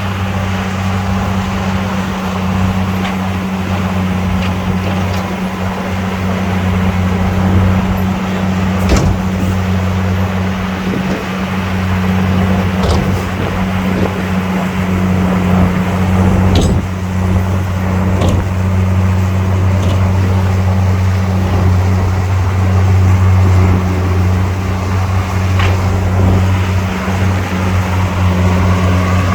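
Heavy diesel engine of earthmoving equipment running steadily, with a few short sharp knocks, the sharpest about 9 and 17 seconds in.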